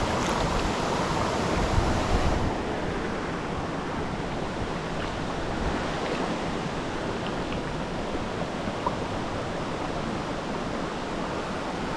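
River water rushing steadily, a little louder for the first two seconds, with a few faint clicks over it.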